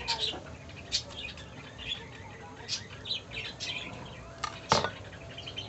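Small birds chirping repeatedly in short high calls, with one sharp knock a little after the middle.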